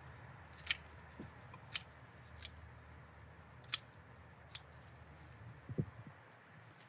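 Pruning shears snipping through lavender stems, about five sharp snips at uneven intervals, with a low thump near the end.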